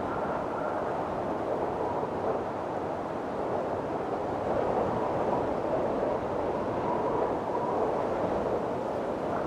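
Windstorm: strong wind blowing as a steady rushing noise that swells and eases, with a faint whistling howl that comes and goes.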